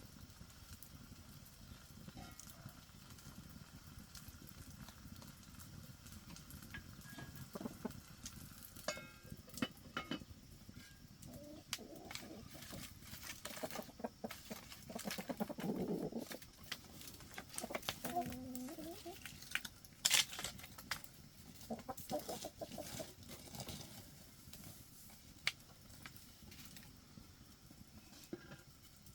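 Scattered clicks and knocks, with a few short animal calls in the middle.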